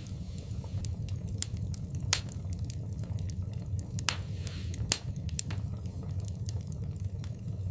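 Wood fire burning in a fireplace: a steady low rumble of flames with scattered crackles and sharp pops, the two loudest a little after two seconds and near five seconds, and a brief hiss around four seconds.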